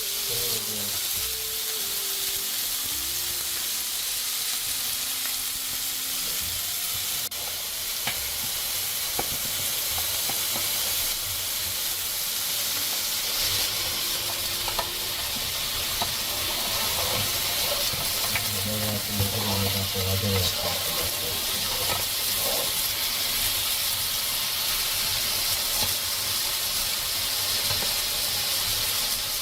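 Food sizzling and frying on a hot cooking surface, a steady hiss with faint background voices.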